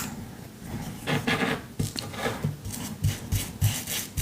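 Paper rustling and a glue brush rubbing as paper is pasted down onto a canvas: irregular scratchy rubs, with a few soft low taps near the end.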